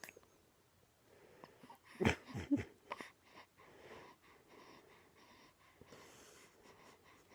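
Baby making a few short vocal noises about two seconds in, then faint, wheezy breathing.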